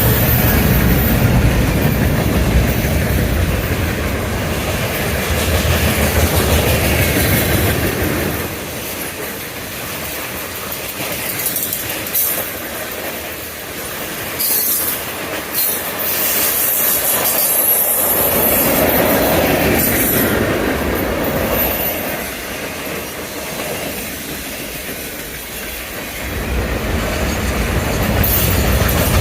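Freight train cars rolling past, steel wheels clattering over the rails with high-pitched wheel squeal; the low rumble eases off after about eight seconds and builds again near the end.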